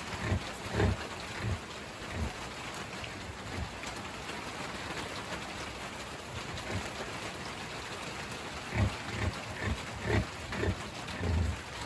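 Pig giving short, low grunts, a few near the start and a cluster in the last few seconds, over a steady hiss.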